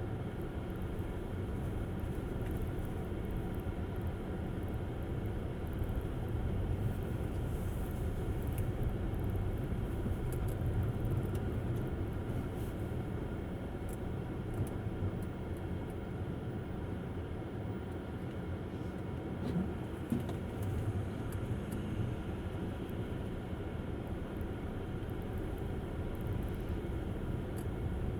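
Tesla Model S driving on snowy roads: a steady low rumble of tyre and road noise, with no engine sound from the electric car.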